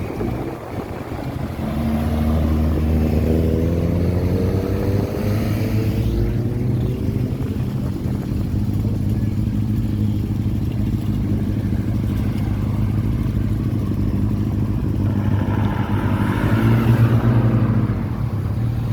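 Car engine running close by. It rises in pitch a few seconds in as it revs or pulls away, then runs steadily and swells louder near the end.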